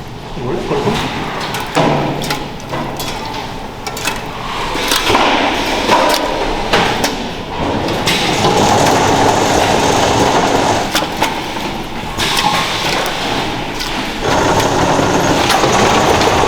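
Food-factory work sounds: scattered knocks and clatter, with steady machinery running from about eight seconds in, pausing briefly and starting again near the end.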